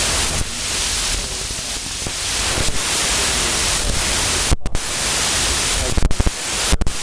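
Loud, steady static hiss covering all pitches, cut by brief sudden dropouts about two-thirds of the way in and several times near the end.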